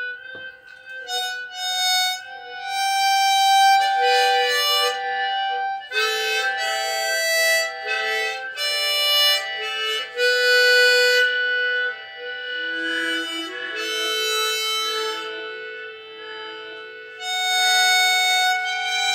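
Harmonica playing a slow, ambient melody of held notes and chords.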